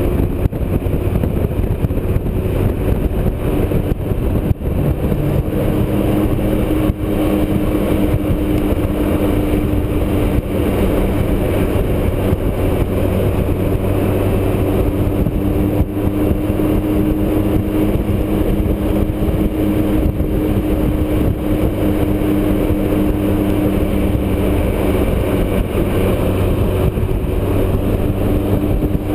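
Motorcycle engine running steadily at highway cruising speed, under a constant rushing noise.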